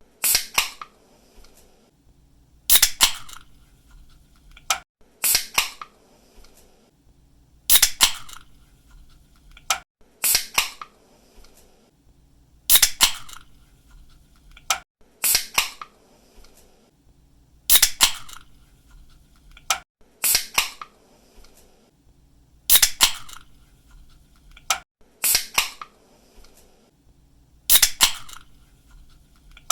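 Pull-tab of an aluminium drink can snapped open again and again, each opening a sharp crack followed by a short hiss of escaping gas, repeating about every two and a half seconds. Some openings are preceded by a faint click as the tab is lifted.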